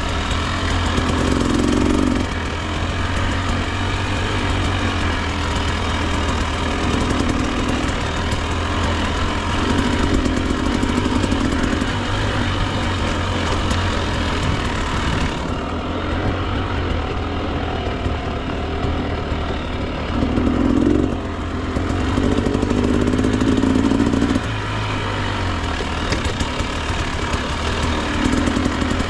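Two-stroke dirt bike engine, a Husqvarna TE 300, running continuously on the trail, with the throttle opened in short louder bursts several times.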